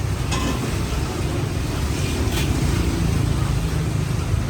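Steady low rumble of street traffic, with a few brief clicks.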